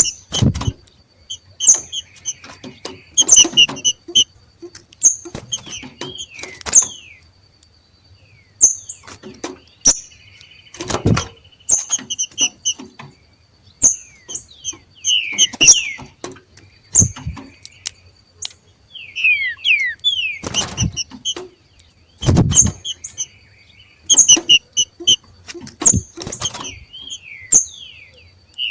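Two green-winged saltators (trinca-ferro) giving the 'macheado', the short, rapid chirping call of birds coming into breeding condition, in clusters of quick sweeping notes. Several sharp knocks sound among the calls.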